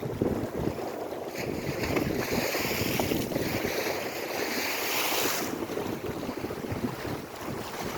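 Lake waves washing on the shore with wind buffeting the microphone; one wave rushes in with a hiss from about a second and a half in until about five and a half seconds.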